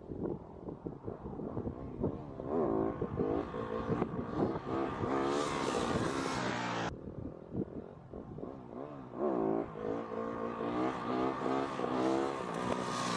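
Motorcycle engine revving, the throttle opened and closed again and again so the pitch keeps rising and falling, over a rush of wind noise. The sound cuts off abruptly about seven seconds in and resumes with more of the same revving.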